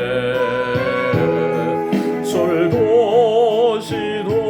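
Instrumental backing track with sustained chords and a melody line. A held note wavers in vibrato about halfway through.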